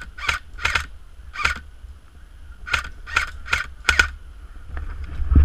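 Airsoft guns firing single shots, as sharp snapping pops. There are about four in the first second and a half, then five more close together between about 2.7 and 4 seconds. A low thump comes at the very end over a faint low rumble.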